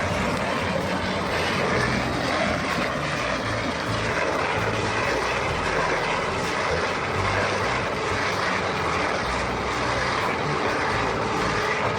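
Heavy machinery engine running steadily under load, with a dense rushing noise over it.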